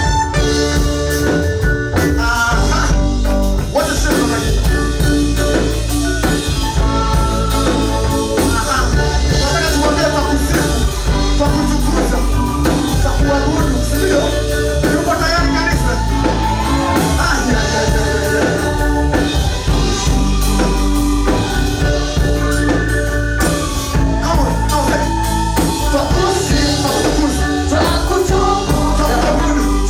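Church praise team singing a gospel song with instrumental accompaniment and a steady beat.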